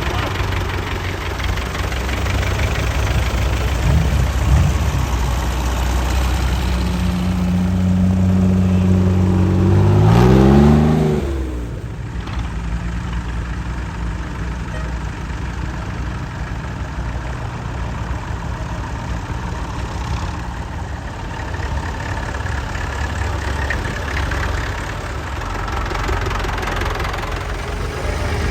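Vintage tractor engines running. About ten seconds in, one engine's note climbs quickly as it revs up, then drops away, leaving a steadier, quieter engine rumble.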